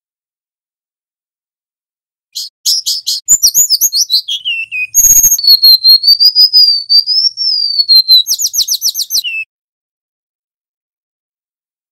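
Golden-bellied gerygone (remetuk laut) singing one high, loud song phrase: a rapid run of notes, a falling whistle, then a long wavering whistle and another quick run, ending on a short lower note. A brief click sounds about midway.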